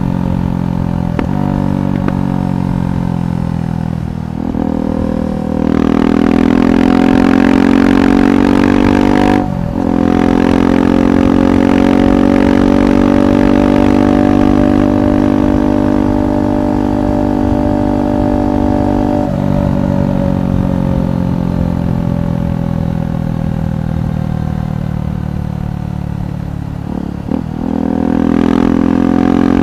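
KTM 390 Adventure SW's single-cylinder engine through a Red Rooster aftermarket exhaust, under way. Brief breaks for gear changes come near the start and about nine seconds in. A long pull under throttle eases off about nineteen seconds in, then there is another shift and it pulls again near the end.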